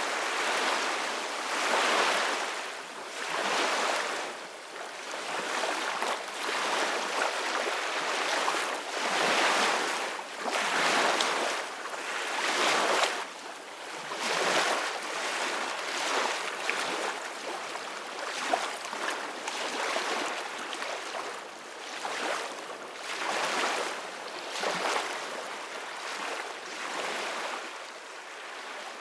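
Ocean waves washing in and breaking one after another, a hiss of surf that swells and eases every second or two, with little deep rumble.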